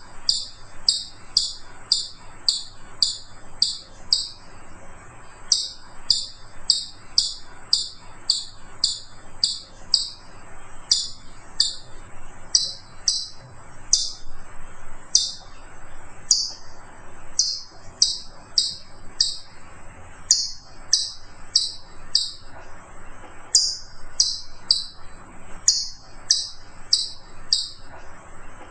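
A bird calling over and over with short, high chirps, about two a second, with a few brief pauses in the run.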